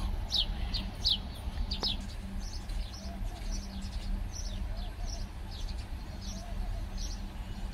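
Bird chirping: short, high chirps, each falling in pitch, repeated irregularly, over a steady low hum.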